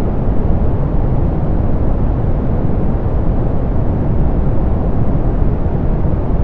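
Steady soft pink noise, a constant, even hiss weighted toward the low end, with the highs rolled off.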